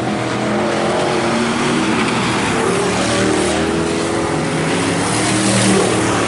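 A pack of IMCA Hobby Stock race cars running laps on a dirt oval, several engines heard at once with their pitch rising and falling as they go through the turns and down the straights.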